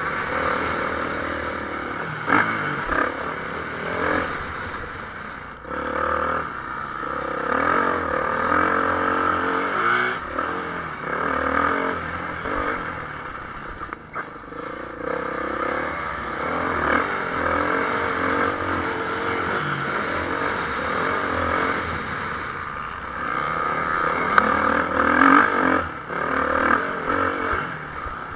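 Motocross bikes racing, engines revving hard and shifting, their pitch rising and falling over and over.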